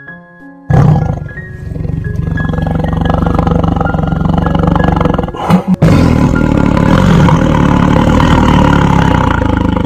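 Loud, drawn-out roaring of a big cat, rumbling low down, with a brief break about halfway through. A few short music notes sound just before it starts.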